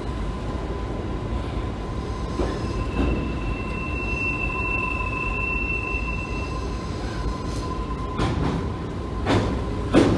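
Container freight train wagons rolling past on steel rails: a steady rumble, a high wheel squeal for about three seconds in the middle, and three loud knocks near the end.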